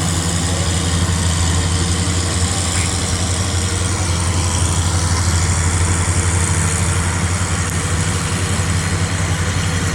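Tractor engine running steadily at idle, a low, even hum with no revving.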